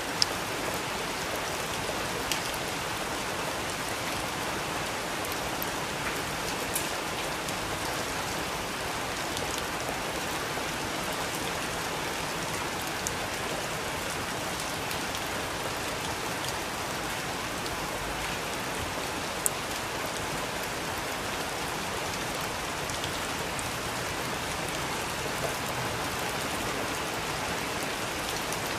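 Steady rain falling, an even hiss of drops, with a handful of sharper, louder single drop ticks scattered through it.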